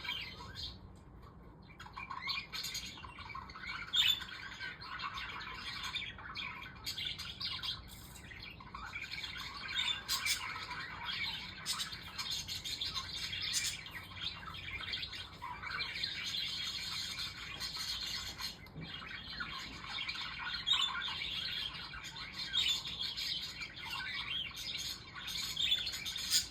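Pet budgerigars (parakeets) chirping, chattering and squawking almost without pause, with a short lull about a second in.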